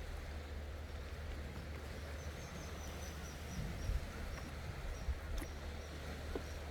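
Outdoor ambience: a steady low rumble like wind on the microphone, with a faint row of short, high chirps from about two to five seconds in and a single sharp click a little later.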